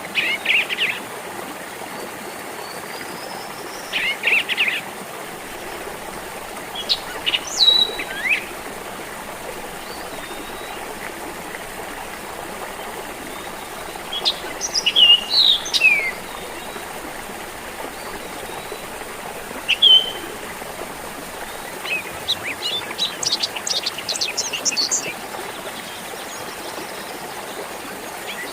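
Small stream of water trickling steadily, with birds singing in short bursts of chirps and whistles every few seconds and a quick run of chirps near the end.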